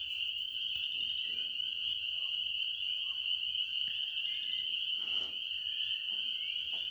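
Nighttime chorus of calling frogs or insects: a dense, steady, high-pitched trilling that doesn't let up, with a brief soft rustle about five seconds in.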